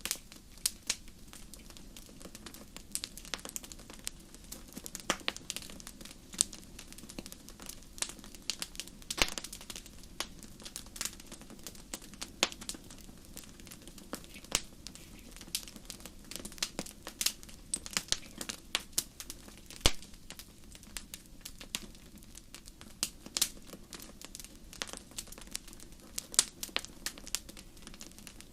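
Wood fire burning in a fireplace: irregular sharp crackles and pops, several a second, over a soft steady hiss of flame.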